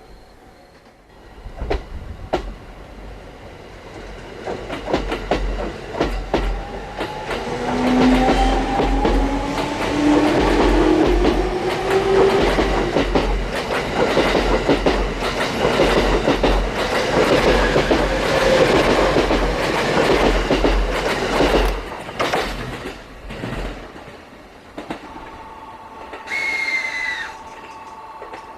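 An electric train passing close by, its wheels clicking rapidly over the rail joints over a steady running roar. Partway through, a motor whine rises in pitch. The pass fades out about three-quarters of the way through.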